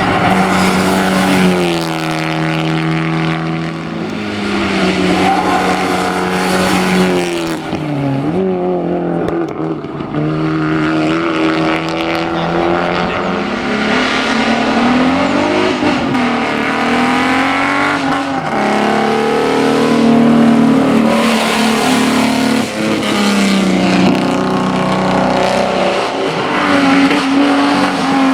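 Hillclimb race cars climbing at full throttle, first an Abarth Grande Punto and then an Alfa Romeo Alfetta GTV6 with its V6. Engine revs rise and drop repeatedly through the gear changes as the cars pass, and the sound is loud throughout.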